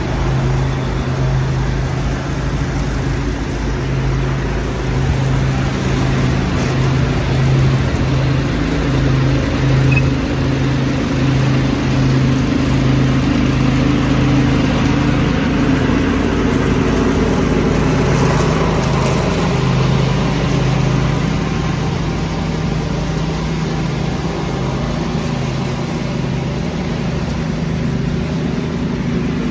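Lawn tractor engine running steadily, driving a leaf vacuum, with a broad rushing of air over the engine hum; the sound swells a little around the middle.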